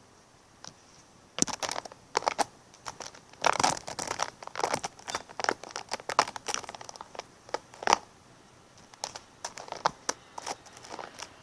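Irregular crinkling and crackling in quick clusters of short clicks, starting about a second and a half in.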